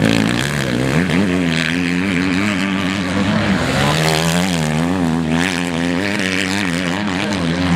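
Motocross bike engines racing, their pitch rising and falling repeatedly as the throttles open and close.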